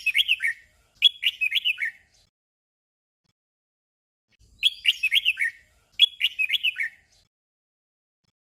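Red-whiskered bulbul song in the short 'double' style: phrases of a few quick notes, each sweeping down in pitch, given in pairs about a second apart with a pause of a few seconds between pairs.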